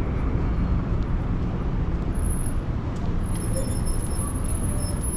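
City street traffic: a steady low rumble of passing vehicles, with a thin high-pitched whine joining about two seconds in.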